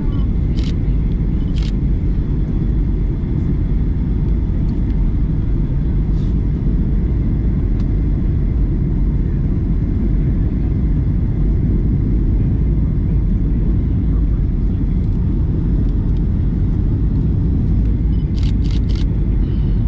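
Steady low cabin rumble inside a Boeing 737-900ER airliner, the noise of its CFM56 jet engines and the airflow, with a few faint clicks near the start and near the end.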